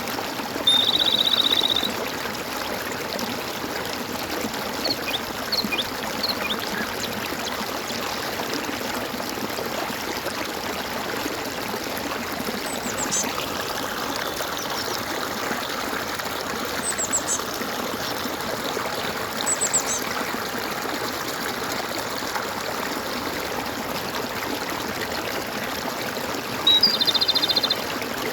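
Stream water gurgling and trickling steadily, with a few faint high bird chirps through the middle. A loud, rapidly pulsed trilling call sounds briefly twice, about a second in and again near the end.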